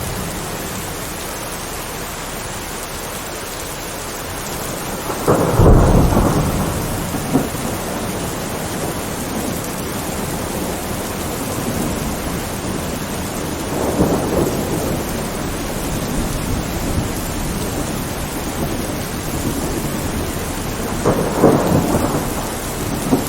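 Steady heavy rain with rolls of thunder. The loudest peal rumbles about five seconds in, with smaller rumbles near the middle and near the end.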